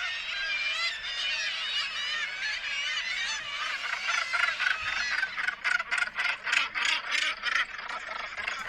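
Many birds calling at once, a dense chorus of harsh overlapping calls. From about halfway a rapid run of short calls comes through, about five a second.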